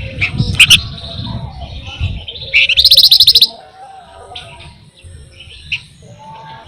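Flamboyan songbird singing: sharp high chirps near the start, then a loud, fast rattling trill lasting about a second, followed by softer scattered calls.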